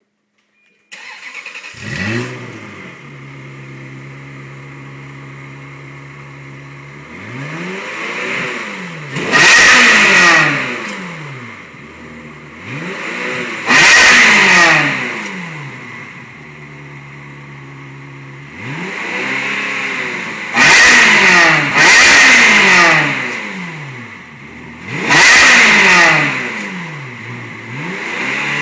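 Ferrari 360's 3.6-litre V8 through its stock European exhaust, starting up about a second in and settling to a steady idle, then blipped hard six or seven times, each rev climbing sharply and falling back to idle.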